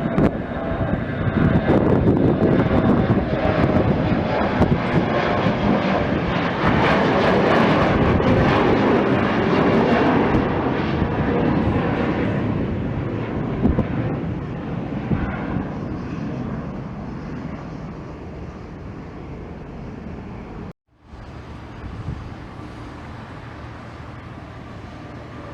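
Airplane engines, loud as an aircraft passes close by, then fading away over several seconds. A brief cut about three-quarters of the way through leaves quieter steady engine noise.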